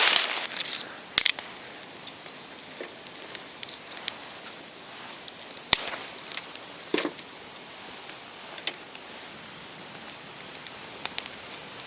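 Dry wood crackling and snapping in irregular sharp pops over a soft steady hiss. A louder cluster comes at the start and two sharp snaps about a second in.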